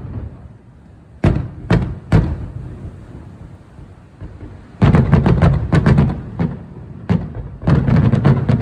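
Fireworks going off: three single bangs, then two dense volleys of rapid-fire reports, the second starting just before the end.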